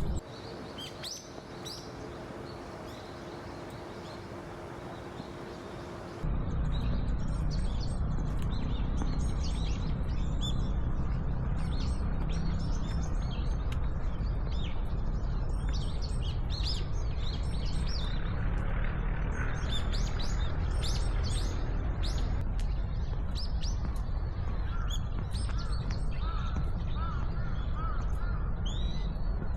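Small wild birds calling, with many short high chirps scattered throughout and a run of quick, repeated rising notes near the end. About six seconds in, the sound cuts to a louder, steady low rumble of outdoor noise under the calls.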